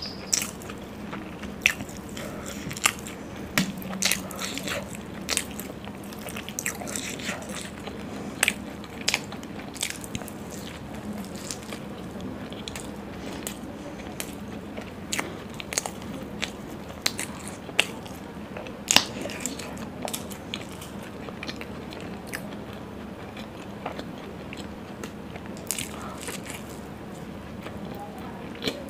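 Close-up eating sounds of a person chewing big mouthfuls of puri dipped in curry: wet chewing with frequent sharp mouth clicks scattered throughout, one of them especially loud about two-thirds of the way through.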